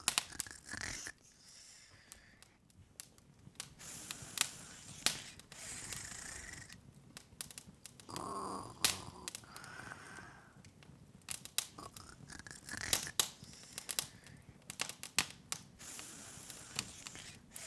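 Open fire crackling, with scattered sharp pops at irregular intervals.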